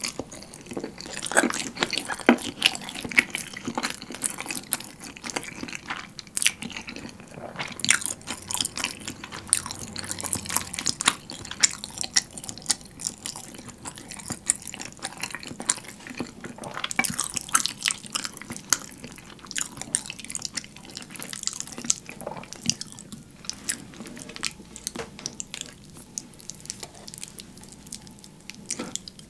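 Close-miked wet chewing and slurping of thick, creamy carbonara pasta made sticky with melted cheese: a steady run of sticky mouth clicks and smacks.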